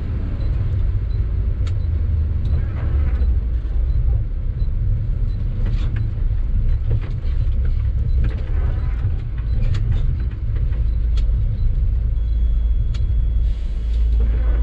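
Diesel engine of a Sany dump truck running, heard as a steady low rumble, with a few faint clicks over it.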